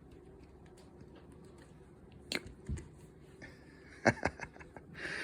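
A few brief soft knocks and taps, two about two and a half seconds in and two more about four seconds in, over a quiet room.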